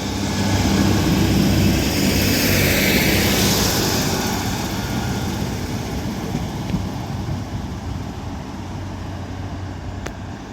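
Northern Class 156 Sprinter diesel multiple unit pulling out of the station, its underfloor diesel engines running under power. The sound is loudest in the first few seconds, then fades steadily as the train draws away.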